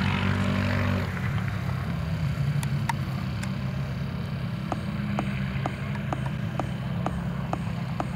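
Drift car's engine idling with a steady low rumble. From about halfway in, a light clicking repeats evenly, about two clicks a second.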